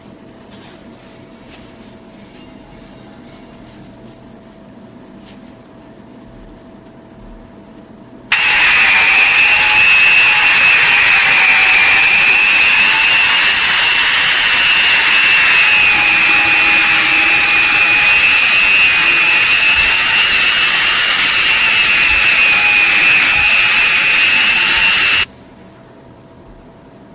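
A power tool with a high-speed motor, such as a grinder, sander or polisher, starts suddenly about 8 seconds in. It runs with a steady high whine over a rushing hiss for about 17 seconds, then stops abruptly. Before it starts there is only a faint steady hum with a few light clicks.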